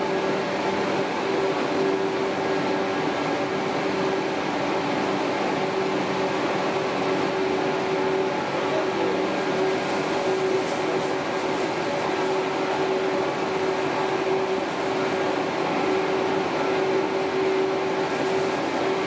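Cabin running noise of a 413/455-series electric train travelling at steady speed: an even rumble with a constant hum, steady throughout.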